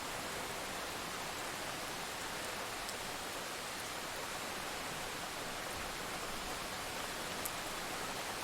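Steady rain falling during a storm, an even hiss with a few faint drop ticks.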